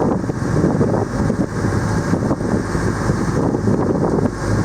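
Motorboat underway: its engine running steadily under way, with wind noise on the microphone.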